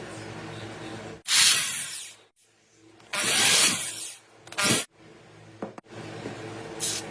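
A steady low hum broken by four loud bursts of hissing spray, the longest about a second.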